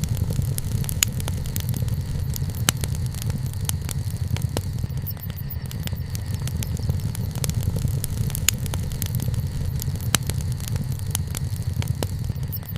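Wood bonfire burning, crackling with frequent irregular sharp pops over a steady low rumble.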